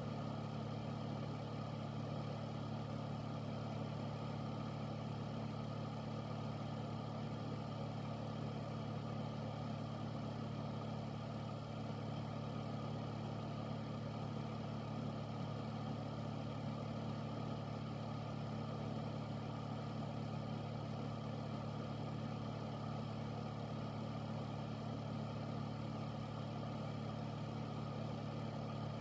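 Air filter fan running steadily: a constant low hum with an even rush of moving air, unchanging throughout.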